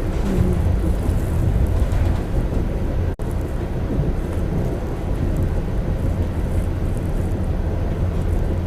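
Commuter train running, a steady low rumble heard from inside a passenger car, cutting out for an instant about three seconds in.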